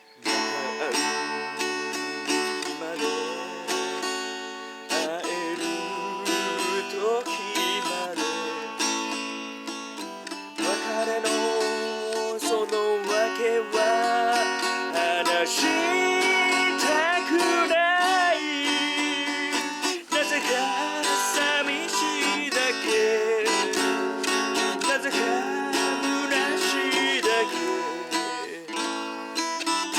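Acoustic guitar music, strummed and picked, with a wavering melody line over it.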